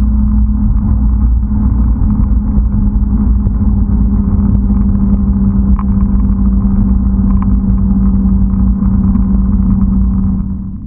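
Noble M400's twin-turbo 3.0-litre V6 heard from inside the cabin, cruising at steady revs with a constant drone over low road rumble. The level dips briefly near the end.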